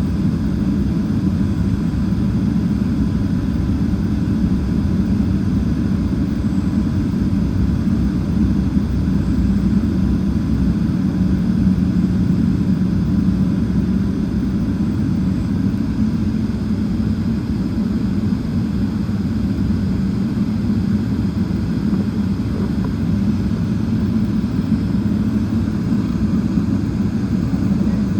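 Boeing 777-300ER's GE90 jet engines running steadily: a low, even drone with no change in level.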